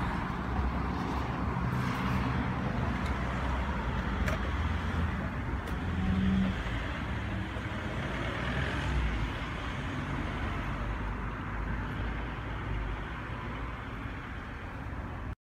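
Car engine running steadily, a low hum, over outdoor traffic noise; the sound cuts off suddenly near the end.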